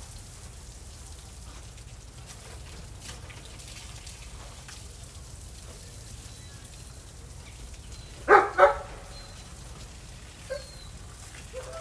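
A dog barks twice in quick succession about eight seconds in, over a faint steady hiss.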